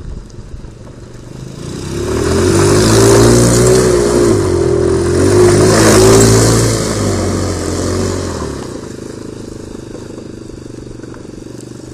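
Small petrol engine of a miniature car running hard as the car drives past. The engine note swells in about two seconds in, stays loud with small shifts in pitch, and falls away after about eight seconds.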